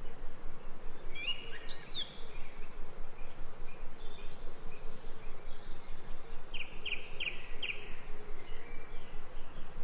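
Ambient recording of birds chirping: a few chirps about a second in, then a quick run of four notes later on, over a steady background hiss.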